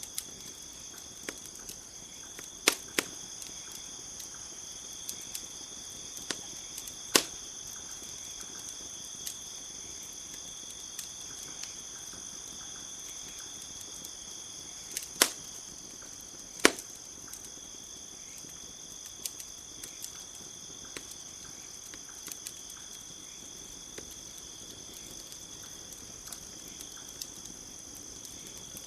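Wood fire crackling with scattered sharp pops and snaps, the loudest a few around 3, 7, 15 and 17 seconds in, over a steady high-pitched chirring of crickets.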